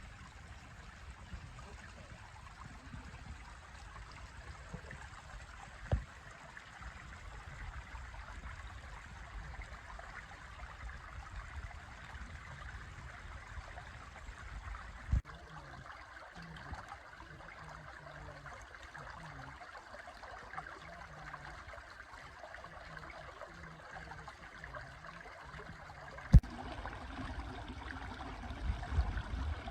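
Creek water flowing steadily, with three short sharp knocks spread through it.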